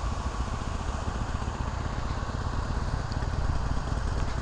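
Harley-Davidson Sportster Iron 883's air-cooled V-twin engine idling with a steady, uneven low rumble, the revs rising slightly in the second half.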